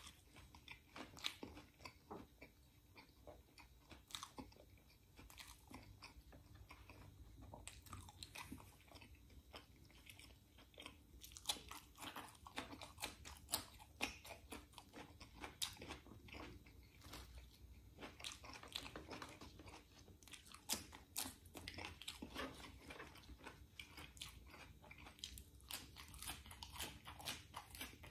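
A person eating: chewing and biting food, with many small crunchy clicks that grow busier about eleven seconds in.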